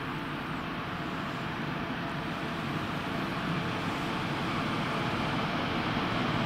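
Electric-locomotive-hauled regional train approaching through the station, a steady rumble of wheels on rails that slowly grows louder, echoing under the platform roof.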